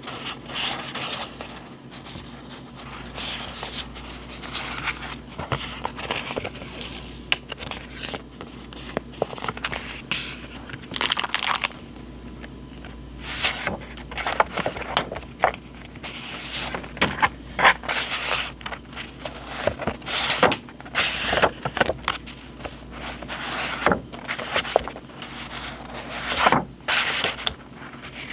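Paper and packaging handled close up: irregular rustling, crinkling and sliding strokes, coming in short bursts, over a faint steady low hum.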